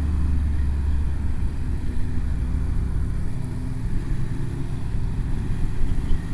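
Motorcycle engine running at a steady cruise while riding, under a deep, steady rumble of wind and road noise.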